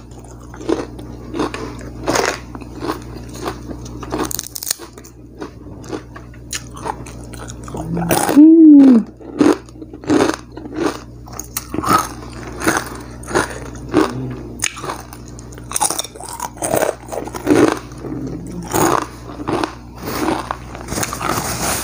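Close-miked chewing of fried duck and rice eaten by hand: wet mouth sounds and many short, crisp crunches. A loud hummed "mmm" of enjoyment comes about eight seconds in.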